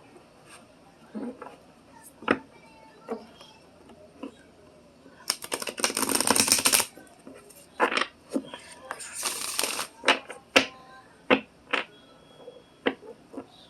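A deck of cards being handled: scattered taps and clicks, with two dense rattling shuffles, one about five seconds in and a shorter one about nine seconds in.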